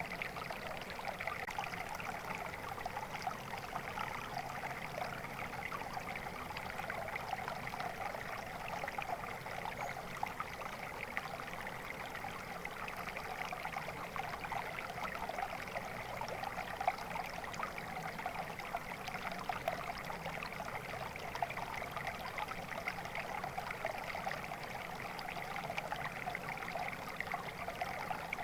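Flowing water in a stream, running and trickling steadily.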